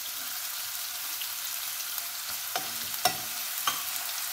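Crushed shallots and garlic sizzling in hot coconut oil in a nonstick pan, a steady high hiss, while a spatula stirs them, giving a few sharp clicks against the pan in the second half.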